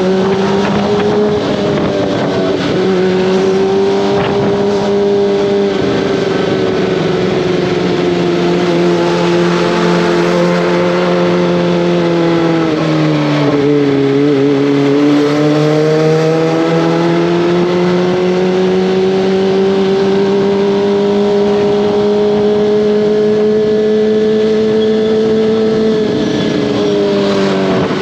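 Kawasaki ZX-25R's inline-four engine and exhaust under way at steady high revs. The revs drop about halfway through, climb slowly back up, then fall off again near the end.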